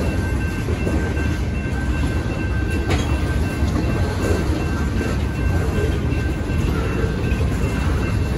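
Freight train cars rolling through a grade crossing: a steady low rumble and rattle of wheels on rail, with one sharper clack about three seconds in. Over it the crossing's warning bell rings continuously.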